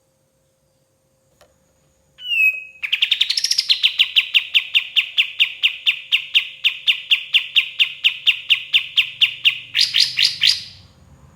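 Kapas tembak songbird singing: a short call, then a long rapid series of repeated sharp notes, about four a second, that breaks into a quicker flurry near the end.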